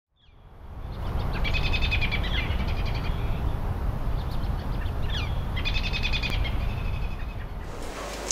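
Birds singing over a steady low background noise, fading in over the first second. There are two rapid trilling phrases, one about a second and a half in and one past the middle, with a few short sliding whistles between them.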